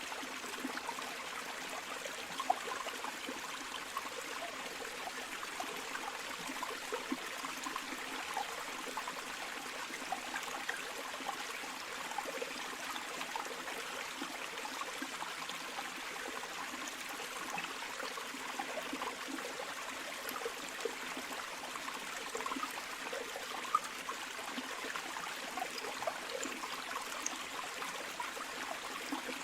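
Flowing river water, a steady rushing stream with small trickling and splashing sounds mixed in.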